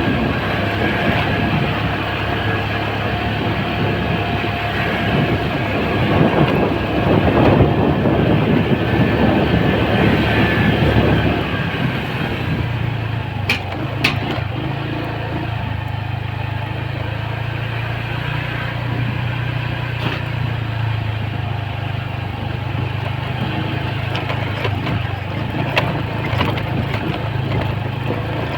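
Motorcycle engine running steadily while riding, with rushing wind and road noise that grows louder from about six to eleven seconds in, then eases. A few sharp clicks about halfway through.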